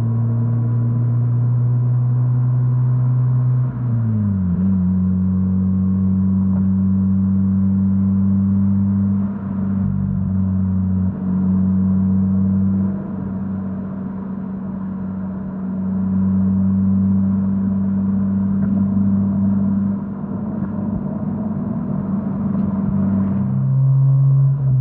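Mazda RX-8's Renesis 13B two-rotor rotary engine running under way, heard through an Autoexe stainless dual muffler. It drones steadily, drops in pitch about four seconds in, eases off for a while in the middle, then changes pitch again near the end.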